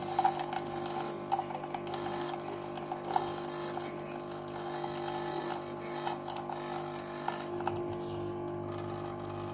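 Capsule coffee machine's pump humming steadily while it brews, with a few faint clicks.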